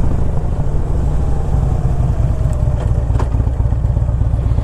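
2007 Harley-Davidson FLHT Electra Glide Standard's Twin Cam 96 V-twin running steadily while the bike is ridden on the road, with a faint whine sliding slowly down in pitch. A single sharp click about three seconds in.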